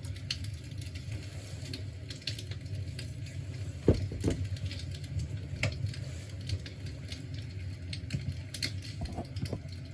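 Crackling fire sound from an imitation fireplace: irregular small pops and snaps over a steady low hum. Two dull knocks come about four seconds in.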